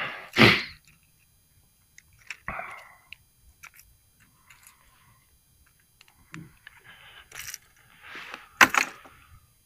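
Scattered rustles, small clicks and light rattles from handling a freshly caught perch and the lure's hooks in a kayak, with a louder sharp rustle near the end.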